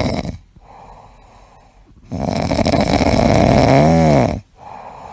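Shiba Inu puppy snoring in its sleep: loud rasping snores about four seconds apart, with quieter breathing between. The snore in the middle ends in a short whistle-like tone that rises and falls.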